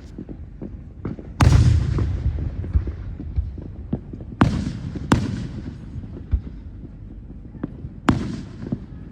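Fireworks going off: four loud booms, about 1.5, 4.5, 5 and 8 seconds in, each trailing off in a rumble, with smaller pops and crackles between them.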